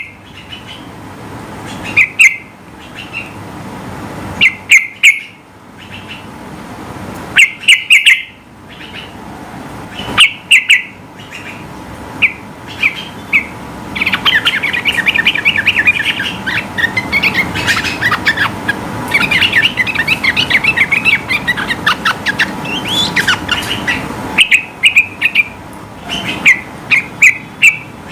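Yellow-vented bulbul singing: loud short call phrases every second or two, broken in the middle by a long, fast chattering run (the rolling 'ropel' song) before the short calls return.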